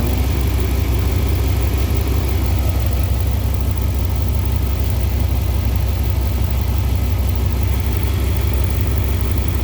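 1997 Dodge Ram 1500's 5.9-litre (360) V8 idling steadily with a deep, even rumble. The engine has about 307,000 miles on it and shows no blow-by.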